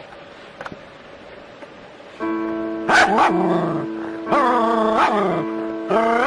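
A dog yelping and whining in loud cries that fall in pitch, several in a row starting about three seconds in, over background music that comes in about two seconds in.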